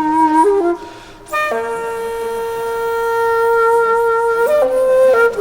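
Music played on a wind instrument: a few short notes, a brief dip about a second in, then one long held note that steps up in pitch near the end.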